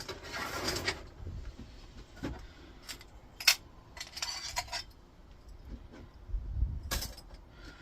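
Metal monitor parts being handled: a scraping, rustling stretch at first, then scattered light metallic clinks and knocks.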